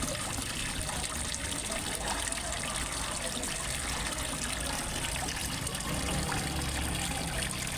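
Water trickling and splashing steadily into a fish pond, as from a small waterfall, with a low rumble underneath.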